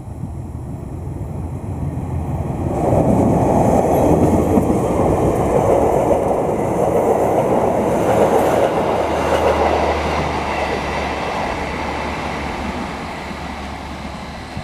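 A loud rushing rumble, as of a large vehicle passing. It builds, surges about three seconds in, holds for several seconds, then slowly fades away.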